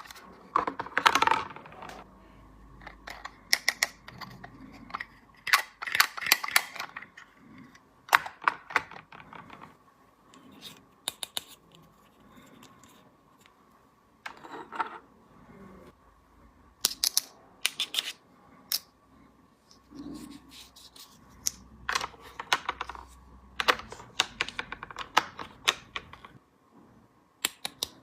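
Small hard plastic toy pieces clicking and tapping as they are handled, snapped together and set down, in irregular clusters of quick sharp clicks.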